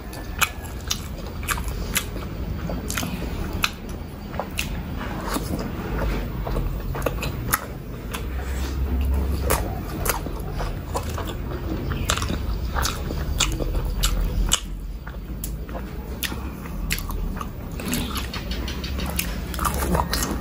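Close-miked chewing of a soft steamed chicken momo, with frequent wet mouth clicks and smacks. Near the end comes another bite.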